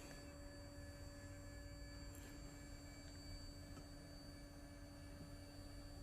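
Faint, steady whine from the Anycubic Mono X resin printer's Z-axis stepper motor as it drives the build plate down to its home position at an even speed.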